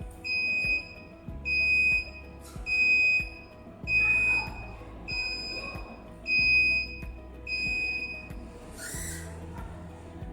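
Electronic buzzer of a ground proximity warning system beeping a high, steady tone about once a second, sounding the too-low warning. The beeps stop shortly before the end, where there is a short hiss. Background music with a steady beat plays underneath.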